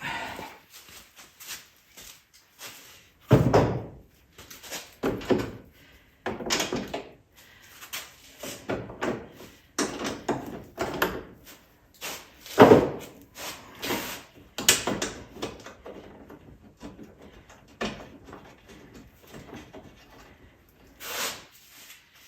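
Workshop handling sounds: irregular knocks, clunks and rattles of parts and tools being moved during ATV reassembly. The two loudest clunks come about three and a half and twelve and a half seconds in.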